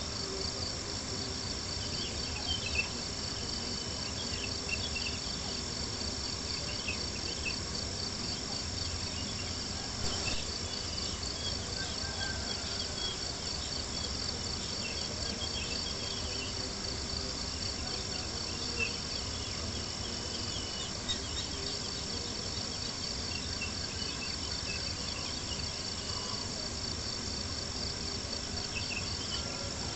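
Crickets chirping in a steady pulsing chorus, with a campfire crackling and popping now and then underneath.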